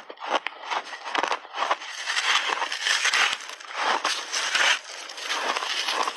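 Chunks of refrozen buckwheat ice being bitten and chewed: a fast run of crackling crunches, sparse sharp cracks at first, then dense grinding crunching through the middle.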